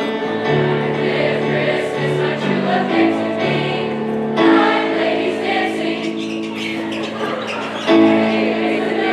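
A choir singing, holding long chords that move to new notes every second or so.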